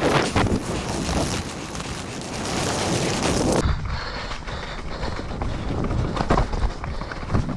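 Mountain bike rattling and clicking over a wet, rough trail, with wind rushing on the microphone. The rush drops off sharply after about three and a half seconds, leaving the knocks and clicks of the bike over the ground.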